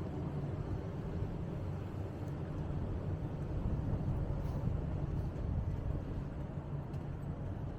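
Outdoor city street ambience: a steady low rumble, typical of traffic.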